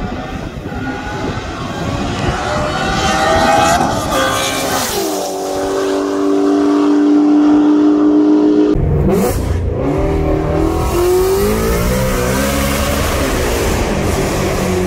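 Two performance cars accelerating hard side by side from a roll, engines revving up through the gears, holding a steady high note for a few seconds before a gear change about nine seconds in, then climbing again.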